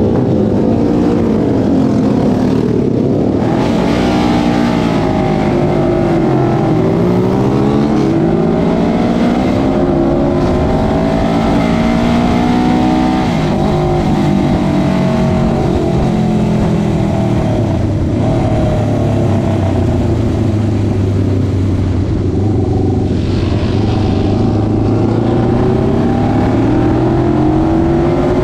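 1977 Suzuki GS400's air-cooled parallel-twin engine, heard from on the bike, accelerating hard, its pitch climbing and dropping again and again as it shifts gears, then holding a steadier note in the second half.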